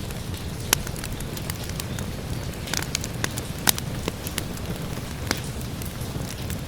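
Wood fire crackling, with scattered sharp pops, the loudest about a second in and near the middle, over a steady low rumble and the hiss of rain.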